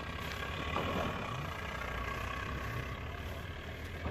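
Small Volkswagen hatchback's engine running at low, steady revs as the car crawls across grass and up a slope.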